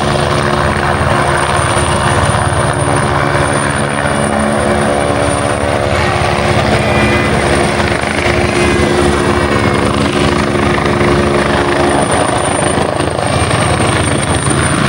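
Helicopter hovering: a deep, continuous rotor and engine hum with a thin high turbine-like whine above it, steady in level throughout.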